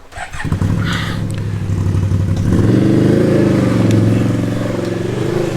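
Can-Am Outlander ATV's V-twin engine running under throttle, growing louder at about two and a half seconds with the revs rising and falling.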